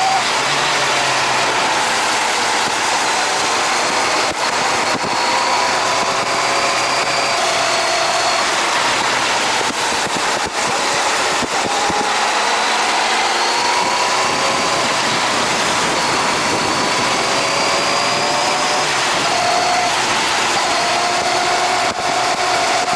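Wind rush and a Honda CBR600RR's inline-four engine heard while riding, the engine note gliding slowly up and down in pitch.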